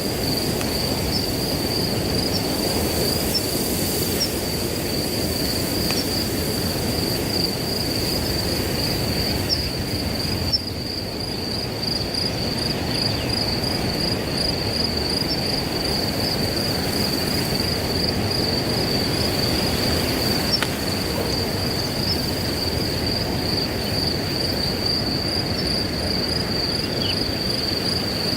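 Crickets trilling in one continuous, steady high-pitched tone over the low, even rush of wind through grass.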